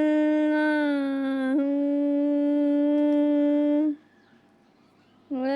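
A parrot giving a long, steady, held call lasting about four seconds, then falling silent and starting a second call near the end.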